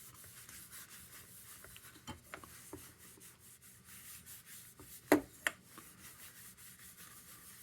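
Cloth rubbing Brasso over an old plastic lantern lens in quick, repeated polishing strokes, with two sharp knocks about five seconds in.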